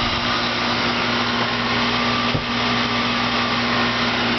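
Goodman 3-ton central air-conditioner condensing unit running steadily: condenser fan noise over a low, even compressor hum. There is one light thump just past halfway.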